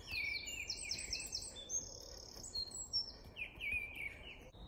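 Songbirds singing: several runs of quick, high, repeated chirps, with a held high note partway through and a last run of lower chirps near the end.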